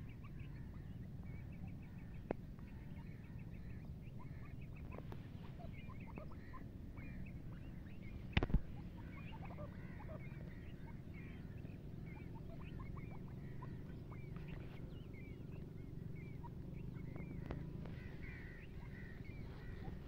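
Birds chirping faintly and repeatedly over a low steady rumble, with a single sharp knock about eight seconds in.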